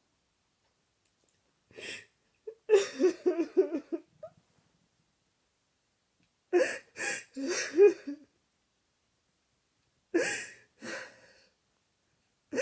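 A person crying in sobbing bouts: sharp gasping breaths followed by wavering, broken sobs, three bouts with silence between them.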